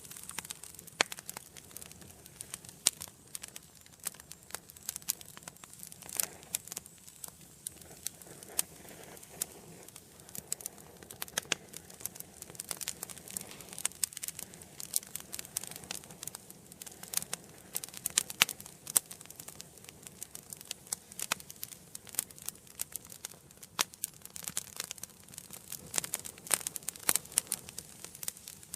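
Wood fire burning in a fireplace, crackling with many irregular sharp pops and snaps over a soft hiss of flames.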